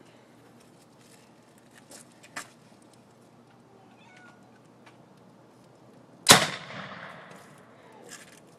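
Hairspray-fuelled potato cannon firing: one sudden sharp bang about six seconds in, dying away over a second or so.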